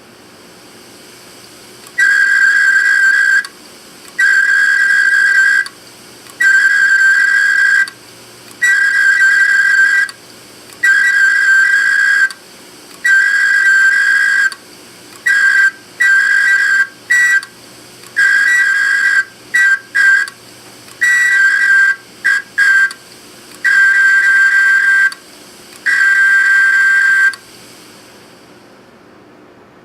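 High, steady squeal in repeated on-off bursts, most about a second long with a few quick chirps among them: a tool pressed against the spinning platter of an opened Seagate Barracuda hard drive to scratch the data off it.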